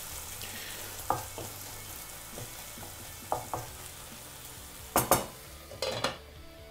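Onion and tomato masala sizzling in a nonstick pan while a spatula stirs it, with a few light scrapes and taps. About five seconds in, a couple of louder knocks come as a glass lid is set on the pan, and the sizzle then turns quieter and muffled.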